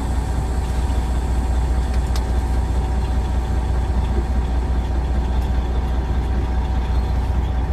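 Semi truck's diesel engine running steadily with a deep, even hum, heard from inside the cab.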